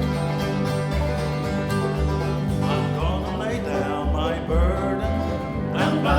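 Bluegrass band playing an instrumental intro, with banjo and guitar picking over evenly spaced bass notes, and a pipe organ holding a steady low note through the first half.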